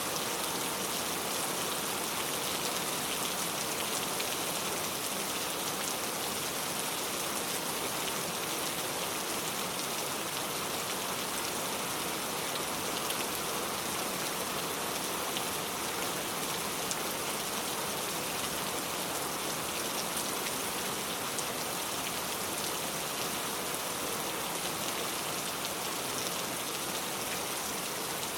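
Steady rain falling, with a dense patter of drops hitting surfaces, even and unchanging throughout.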